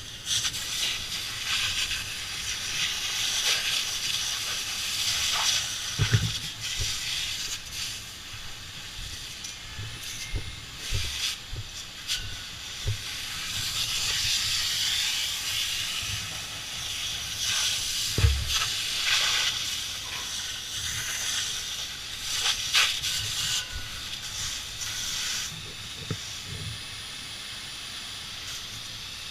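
Fire hose spraying water onto the fire, a hiss that swells and fades in long surges. Two sharp thumps come about 6 and 18 seconds in.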